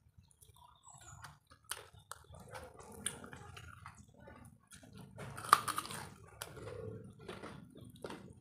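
Close-miked mouth sounds of people eating chicken wings and fried noodles: chewing and biting, with a run of short clicks that is loudest about five and a half seconds in.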